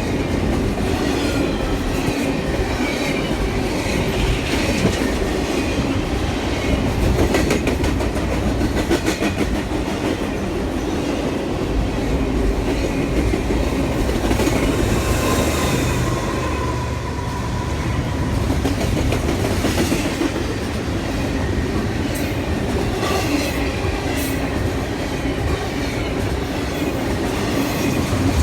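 Railroad cars rolling past at speed, a steady heavy rumble with wheels clicking over rail joints, and a faint wheel squeal about halfway through.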